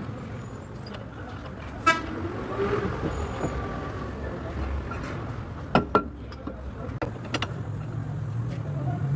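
Metal-on-metal work on a van's front suspension: a sharp ringing metallic clank about two seconds in, then two quick knocks near the middle and a few lighter clicks, over a steady low rumble.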